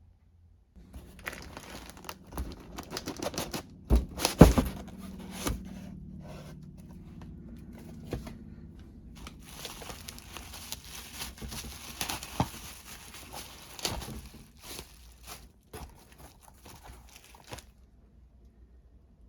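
Packaging being torn open and crumpled by hand while unpacking a box of discs, with crinkling throughout and a few knocks, the loudest about four seconds in.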